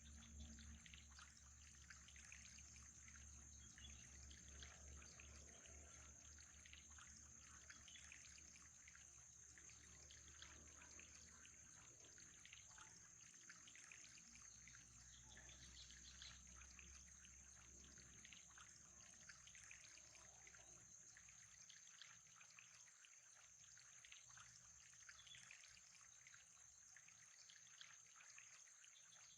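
Faint trickling water, with a steady thin high whine and a low hum that drops away about two-thirds of the way through.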